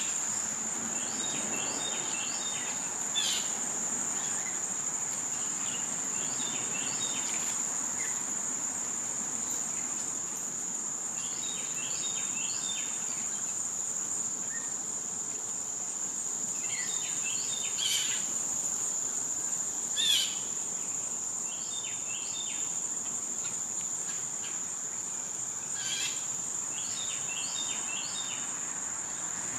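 Summer insects drone in one steady, high-pitched unbroken tone. Over it a small bird repeats a short chirping phrase every few seconds, and a few louder single sharp bird calls break in, the loudest about twenty seconds in.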